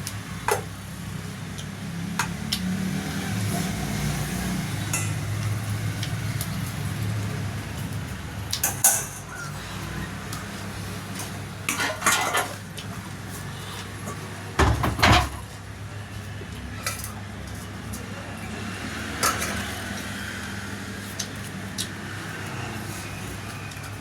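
Dishes and utensils clinking and knocking against a plate during a meal: scattered sharp clicks, the loudest about 9, 12 and 15 seconds in, over a steady low hum.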